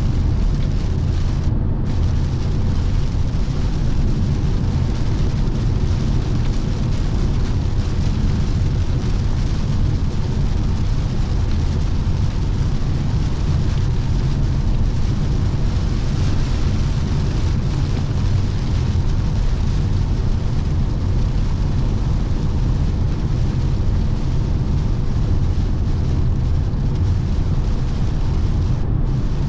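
Steady low rumble of road, tyre and wind noise from a 2017 Lexus NX 300h hybrid cruising at motorway speed, heard from inside the cabin.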